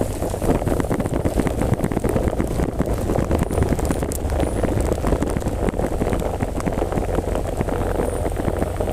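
Heavy rain with wind buffeting the microphone: a steady low rumble under a dense crackle of drops.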